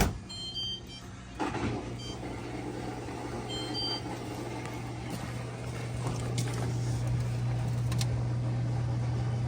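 Maytag dishwasher running under test with a steady low electric hum from its pump or motor, growing slightly louder after about six seconds, with a few faint short high beeps in the first few seconds.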